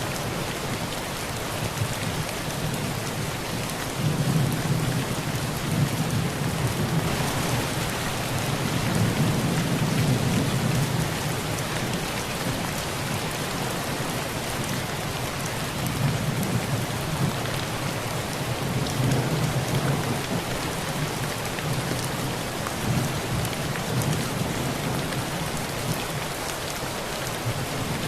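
Heavy rain pouring steadily on a tin roof, with low rumbles of thunder swelling and fading several times.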